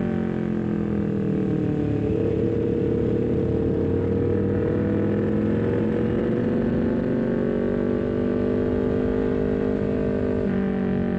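Honda CBR250RR parallel-twin engine through an R9 full-system header and Leovince GP Corsa carbon short silencer. Its note dips for about the first two seconds, then climbs slowly and steadily in pitch for several seconds as the bike accelerates. Near the end the pitch shifts abruptly with a quick gear change.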